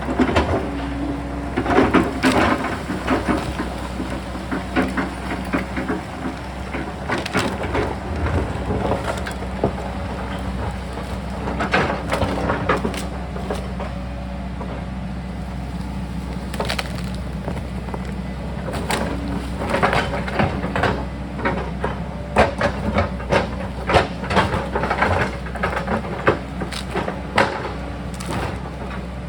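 Sany excavator's diesel engine running steadily while its bucket digs into the rocky hillside, with repeated knocks, scrapes and cracks of rock and earth breaking loose.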